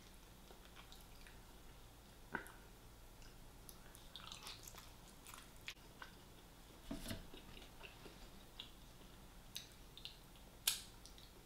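A person chewing and biting fried chicken close to the microphone: quiet wet mouth sounds with scattered clicks and crunches. A few louder snaps stand out, the loudest near the end.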